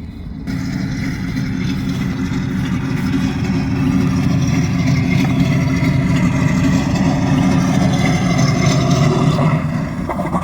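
Benedini sound module on an RC Gee Bee Z model playing a simulated piston-engine sound, running steadily. It comes in about half a second in and fades near the end.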